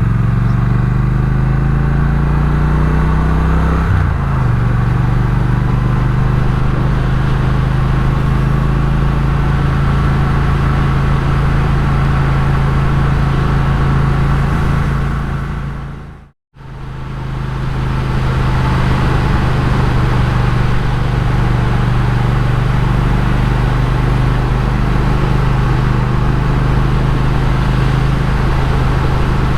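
Triumph Speed Twin's parallel-twin engine on the move, heard from the bike: it rises in pitch for the first four seconds, drops with a gear change, then runs steadily. About halfway through it briefly fades to silence and comes back.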